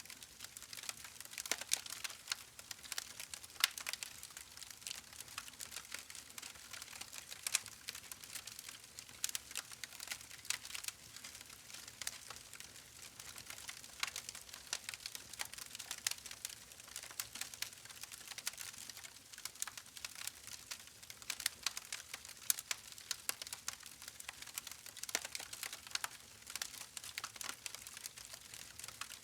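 Campfire crackling: an unbroken, irregular run of small pops and snaps, some sharper and louder than the rest, with hardly any low rumble.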